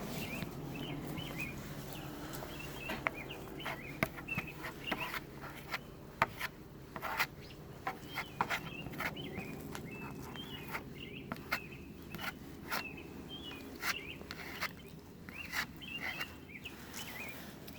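Irregular clicks and taps of a spreader working fiber-fill filler into holes in a fiberglass rudder, with short high chirps scattered throughout.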